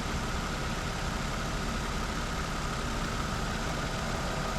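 Car engine idling steadily under the open hood with the AC compressor engaged and running continuously instead of cycling, as the system takes refrigerant from a recharge can; a faint steady whine sits over the idle.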